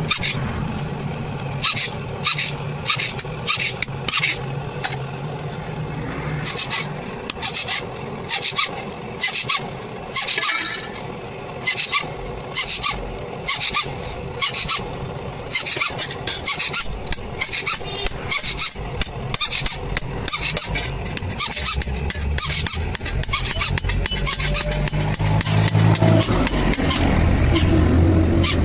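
A hand tool working the iron sickle blade: a run of short, sharp strokes, about one a second and sometimes in pairs. A low engine hum rises over the last few seconds.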